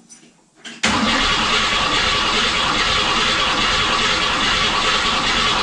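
Starter cranking a 302 small-block V8 over, starting abruptly about a second in and running steadily without the engine catching; no fuel has yet reached the carburetor.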